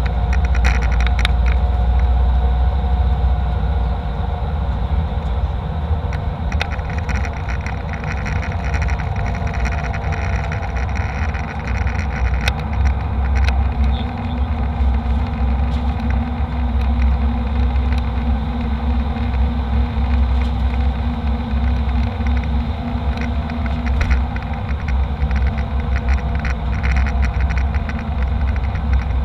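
Airliner cabin noise: a steady, loud low drone of jet engines and airflow with a couple of steady hum tones, a second lower hum joining about halfway, and scattered light rattles and clicks from the cabin.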